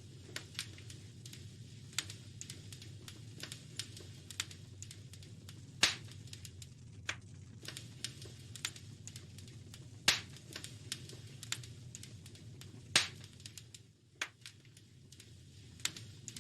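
Wood fire crackling in a fireplace: a constant scatter of small sharp snaps with three loud pops, about six, ten and thirteen seconds in, over a steady low rumble.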